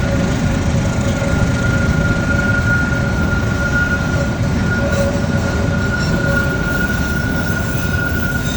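Pertamina fuel tanker train rolling through a station, a steady low rumble with a steady high-pitched squeal over it.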